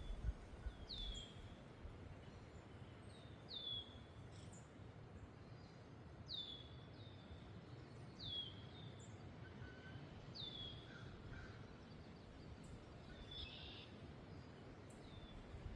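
A songbird repeating a short call that sweeps down in pitch, every couple of seconds, over a faint low wind rumble.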